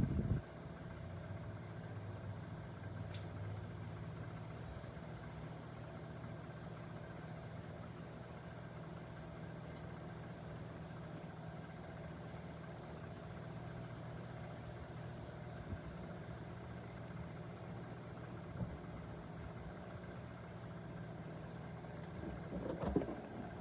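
Microwave oven running with a steady low hum, with a few faint ticks along the way.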